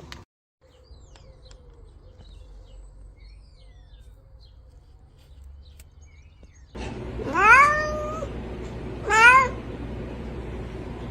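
A domestic cat meowing twice in the latter half: first a long meow that rises and then levels off, then a shorter rising one, over a steady low background noise. Before that, only faint background noise.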